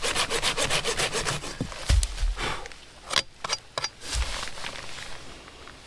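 A blade sawing through a chaga conk with quick, even back-and-forth strokes for about two seconds. Then two dull thumps and a few clicks as the cut chunk is handled.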